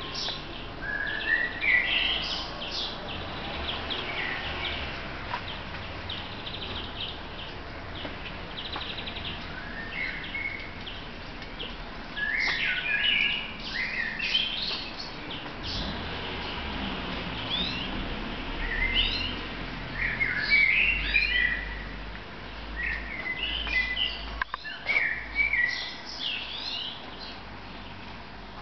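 Songbirds singing: short chirping phrases that come every few seconds.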